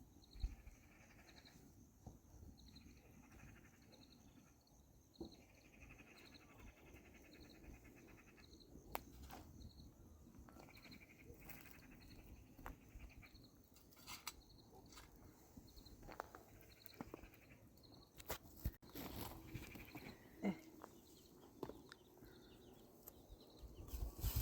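Near-silent outdoor ambience: a faint high chirp repeats about twice a second through the first half, with scattered light clicks and knocks.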